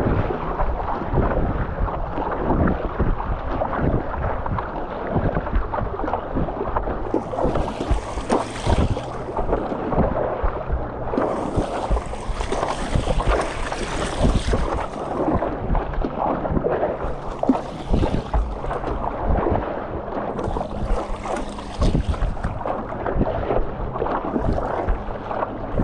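Wind buffeting the microphone over choppy sea water, with a steady low hum underneath and several bursts of hissing splash or gust.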